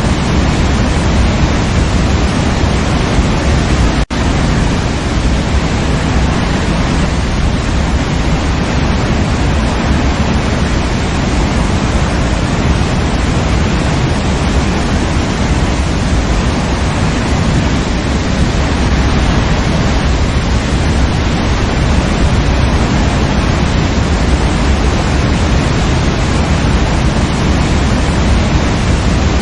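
Waterfall: falling water making a steady, dense rush, heaviest in the low end. There is one split-second dropout about four seconds in.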